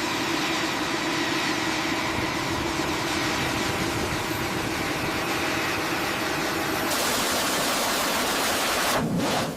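Pumps running with a steady hum and hiss, their pressure stable. Near seven seconds in the hum drops away and a brighter hiss takes over, then the sound cuts off suddenly about nine seconds in.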